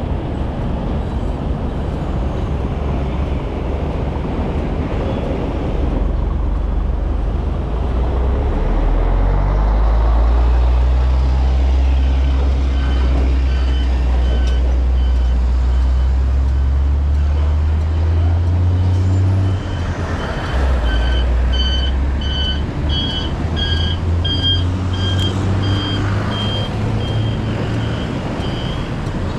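Road traffic heard from a moving bicycle, with heavy low wind rumble on the camera microphone. A motor vehicle's engine rises in pitch for several seconds, and from about twelve seconds in a high electronic beep repeats in short, evenly spaced pulses.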